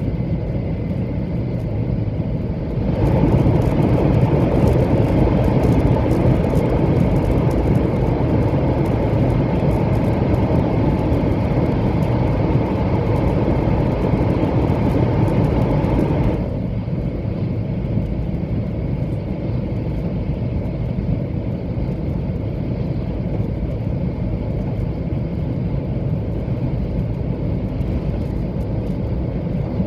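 Running noise of a 700 series Shinkansen train at speed, heard from inside the passenger car: a steady rumble. About three seconds in it abruptly gets louder and hissier, and about thirteen seconds later it drops back just as suddenly to the steady rumble.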